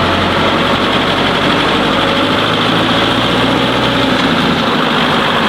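An engine running steadily, a loud, even drone with no change in speed.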